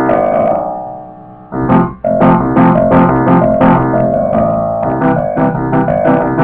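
Piano played as a solo: quick notes and chords that die away about half a second in, come back with a strong chord about a second and a half in, then run on as a fast stream of notes. The tone has a distortion that the uploader blames on a damaged speaker, making it sound somewhat like a guitar.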